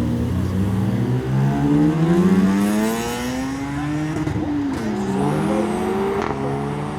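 Mazda RX-7's rotary engine revving up as the car accelerates away. The pitch climbs for about four seconds, drops briefly, then climbs again.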